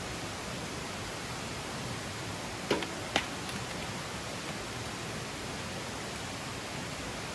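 A steady rushing hiss, with two sharp cracks about half a second apart a little under three seconds in.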